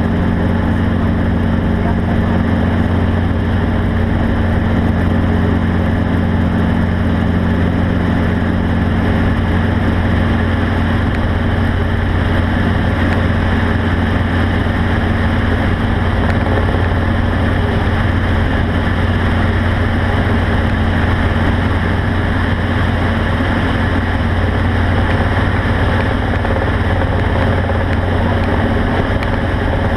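A vehicle engine running steadily at constant speed, a low drone with a haze of running noise over it.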